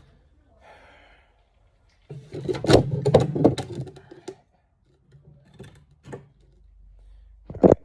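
Handling clatter as a stud welder kit case is opened: a dense run of clicks and knocks about two seconds in, a few lighter clicks later, and a sharp knock near the end.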